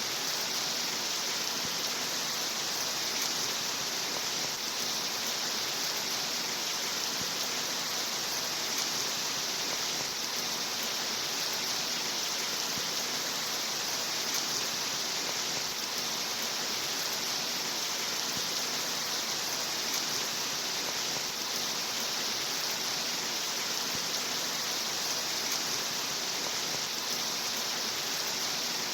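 Steady rain: an even, unbroken hiss that holds the same level throughout.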